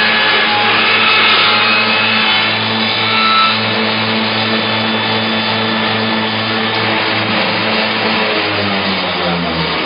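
CBJ-5 hammer-handle making machine running with a steady motor hum. Near the end its pitch drops as it slows.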